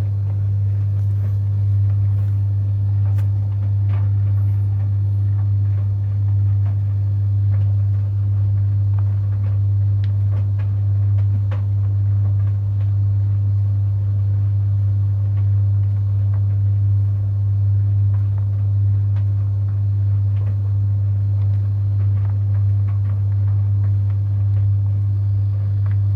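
Samsung DV80M5010 heat pump tumble dryer running mid-cycle with a load of towels: a steady low hum with faint scattered ticks.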